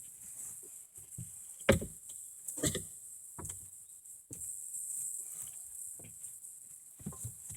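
A handful of irregular knocks and clunks, about four sharp ones spread through the first half, over a steady high hiss.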